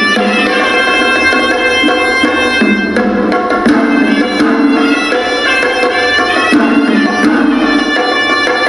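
Hewisi ritual music: traditional Sri Lankan temple drums beating a steady rhythm under a shrill reed pipe (horanewa) playing a melody that moves from note to note.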